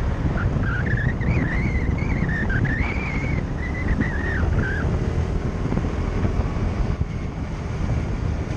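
Wind and road noise on a moving motorbike, a dense low rumble buffeting the microphone. A wavering high whine rises and falls over the first half.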